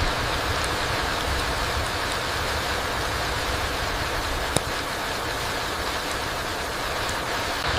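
Steady rain falling on a forest floor: an even hiss with a low rumble under it, and one sharp tick a little past halfway.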